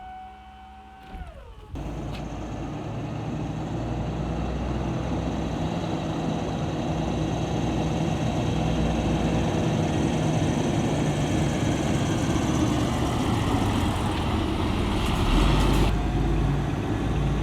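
A steady high tone that slides down and stops about two seconds in, then a Scania P420 truck's diesel engine running steadily, with a brief burst of hiss near the end.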